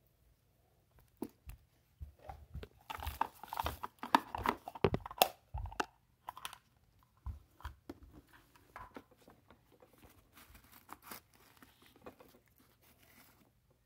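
Plastic toy garbage truck being handled, with irregular clicks and knocks of its plastic parts and the rustle and crinkle of small bits of paper trash in its body. It is busiest about two to six seconds in, then trails off into scattered light rustles.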